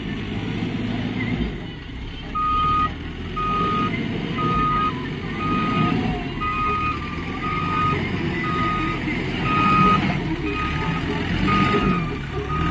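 CASE backhoe loader's diesel engine running, with its reversing alarm beeping about once a second from a couple of seconds in: the machine is backing up.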